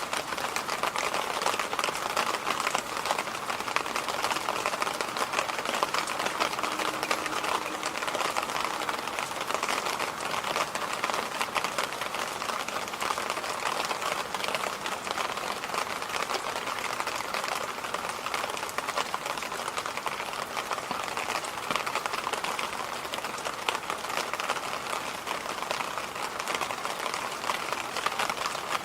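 Electric fan running steadily: an even rushing noise with a fine, fast flutter in it.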